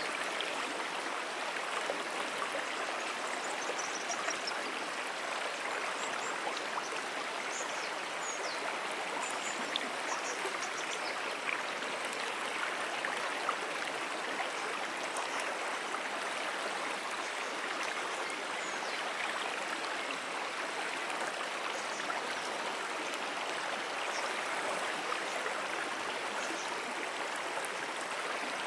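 Water of a small brook flowing in a steady, even rush.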